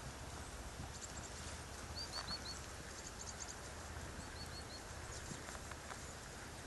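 Open-field ambience: a steady low rumble of wind on the microphone, with a small bird giving two quick runs of four short high chirps, about two seconds apart.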